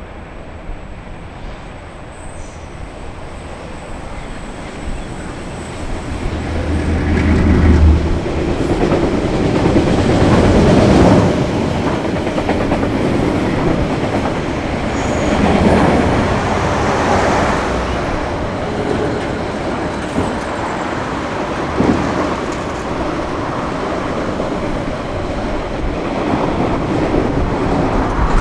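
A train passing. It grows louder over the first several seconds, with a low drone peaking about seven to eight seconds in. Then the cars roll past, with wheels clattering over the rail joints.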